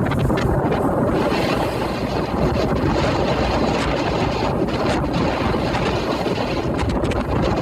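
Strong wind buffeting the microphone aboard the ferry Orange Shikoku under way, over a steady low rumble from the moving ship.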